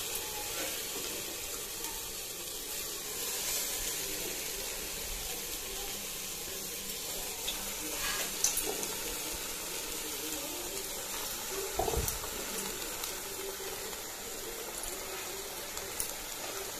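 Raw chicken pieces sizzling steadily in hot fried masala and oil in a metal pot, with a couple of light knocks partway through.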